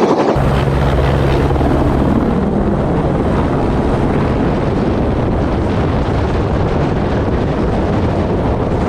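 Helicopter running steadily: a loud, even engine and rotor noise with a low hum that is clearest for the first couple of seconds.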